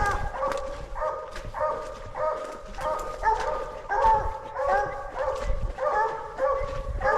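Coonhounds barking steadily at a tree, short barks several a second overlapping without a break: the treed bark that says a raccoon is up the tree.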